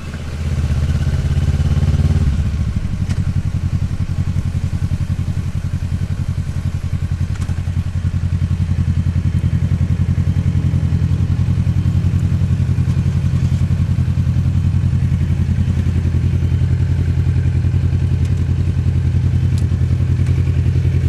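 Kawasaki Ninja 650R's parallel-twin engine running at a steady, even pitch. It grows louder right at the start, then holds level.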